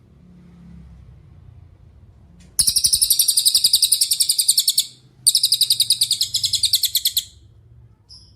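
Cililin bird singing two loud, high, fast trills of rapidly repeated notes, each about two seconds long with a short break between, starting about two and a half seconds in. One short chirp follows near the end.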